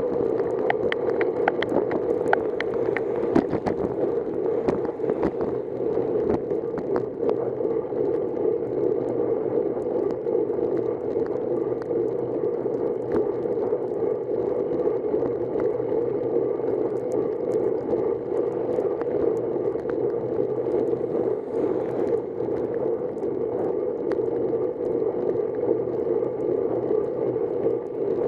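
Steady rushing road and wind noise of a bicycle ride, with a scatter of sharp ticks and rattles in the first few seconds.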